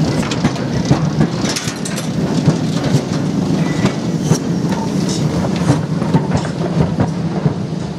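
A short train of wagons with a saddle-tank steam locomotive rolls slowly past at close range. Its wheels rumble on the rails with many irregular clicks and clanks, and the sound starts to fade right at the end as the locomotive moves away.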